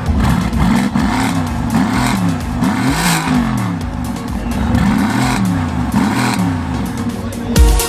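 Mercedes-AMG GT's 4.0-litre twin-turbo V8 being revved over and over, the engine note climbing and dropping in quick repeated blips.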